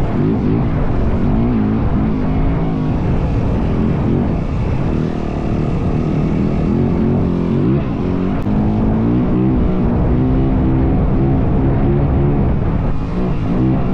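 Yamaha WR450F dirt bike's single-cylinder four-stroke engine running under way off-road, its revs repeatedly rising and falling through the gears, with wind buffeting the microphone.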